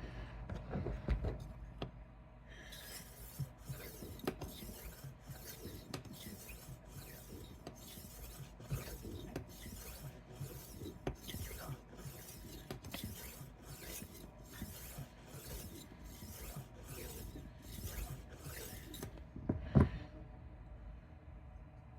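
Rolling knife sharpener's 5000-grit plate rolled back and forth along a chef knife's edge: a faint, even scraping of about two strokes a second, quiet because the fine grit takes off little metal. One thump near the end.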